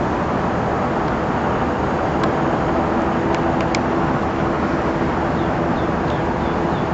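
Powerboat running at speed: a loud, steady rush of engine, wind and water. A faint steady drone comes in about two and a half seconds in, and a few sharp ticks sound near the middle.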